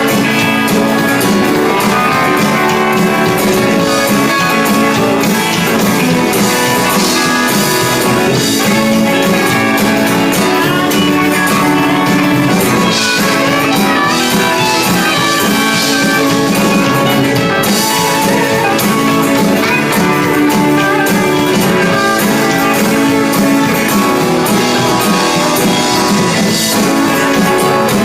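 Band playing an instrumental passage, guitar-led, with a drum kit keeping a steady beat.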